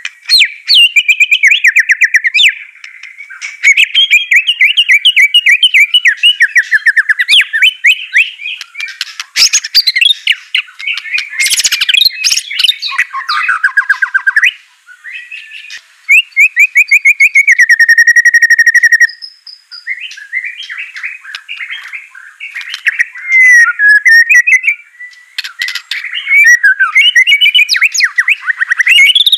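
White-rumped shama (murai batu) in full song: a loud, varied run of rapid chattering trills and whistled phrases. About halfway through there is a long, even, repeated trill lasting about three seconds.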